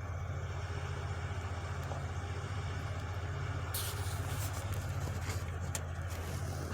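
Debris truck engine running steadily with a low rumble. From a little past halfway, a run of short clattering knocks and rattles sounds over it.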